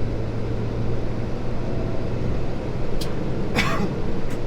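Kenworth T680 diesel truck running steadily, with a short hiss about three and a half seconds in. The truck has a major air leak in its air system.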